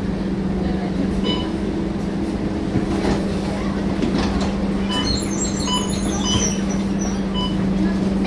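Scania K230UB bus's nine-litre five-cylinder diesel engine running at a steady drone under way, with scattered short high chirps in the second half.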